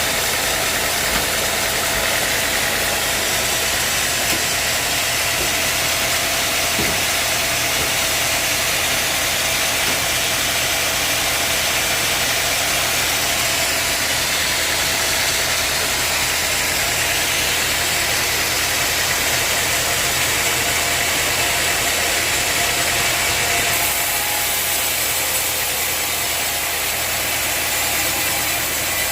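Sawmill machinery running steadily: a continuous engine-like drone with a loud hiss, its tone shifting slightly about three-quarters of the way through.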